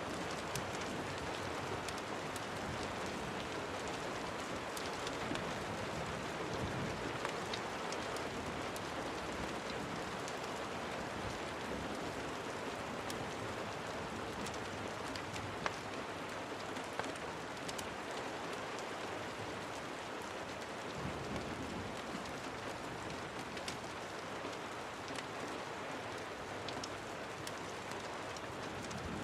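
Steady rain falling on a surface, with scattered sharp ticks and one louder click about sixteen seconds in.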